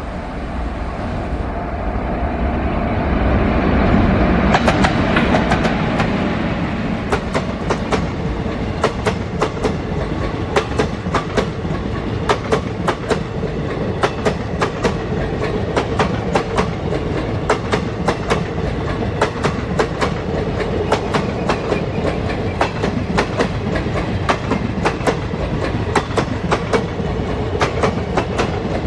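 WAP-4 electric locomotive approaching and passing at speed, its sound swelling to a peak a few seconds in. A long rake of passenger coaches follows, rushing past with a steady clickety-clack of wheels over rail joints, about one to two beats a second.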